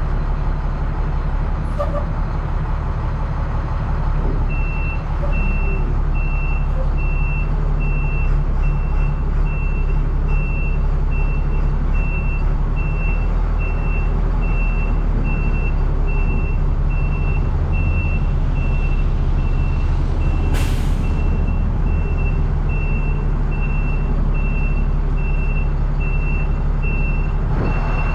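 A truck's diesel engine running steadily while reversing. Its backup alarm begins beeping about four seconds in, about twice a second, and a short hiss of air breaks in around twenty seconds in.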